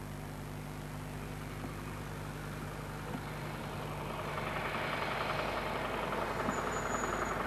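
Ford Model T four-cylinder side-valve engine running steadily, its note growing louder from about halfway through as the car approaches.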